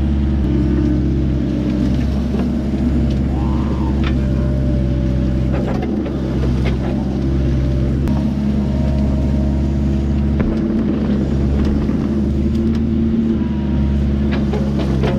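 Kubota excavator's diesel engine running steadily, with scattered short knocks and clicks over it.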